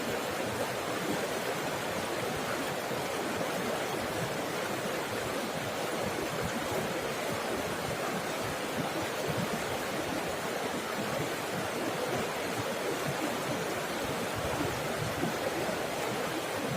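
Water babbling and splashing over rocks in a steady, unbroken rush.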